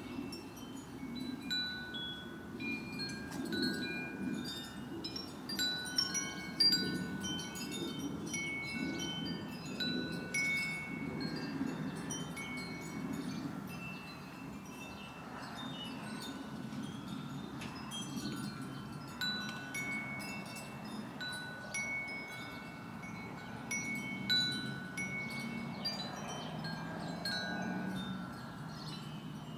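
Wind chimes ringing irregularly, a few clear notes at fixed pitches struck again and again, over a low steady rumble.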